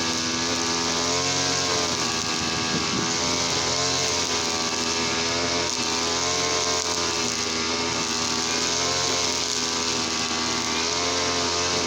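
Easyman TL33 two-stroke brush cutter engine running at speed on a petrol-oil mix. Its pitch dips slightly and recovers a few times.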